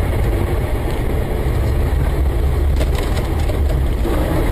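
Steady low rumble of a moving car's engine and road noise, with a brief cluster of sharp clicks or knocks about three seconds in.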